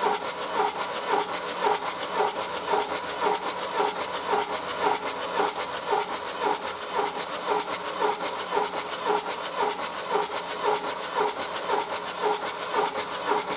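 Peugeot 407 2.0 HDi (DW10TD) diesel engine being cranked over on the starter for a compression check, each compression stroke giving a hissing puff at about four a second in an even rhythm. It stops right at the end.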